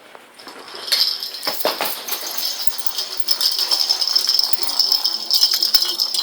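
A cat's toy ball rattling as it is played with, a dense run of fast small rattles starting about a second in.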